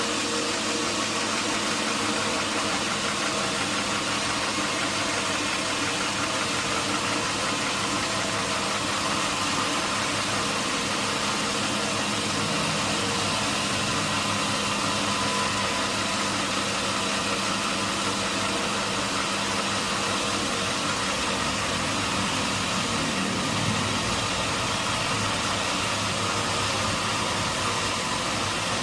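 Sawmill machinery running steadily: an unchanging motor hum under an even mechanical noise.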